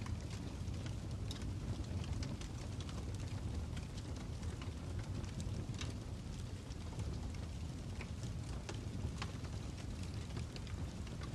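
A crackling fire: a steady low rumble of flames with irregular sharp pops and snaps scattered throughout.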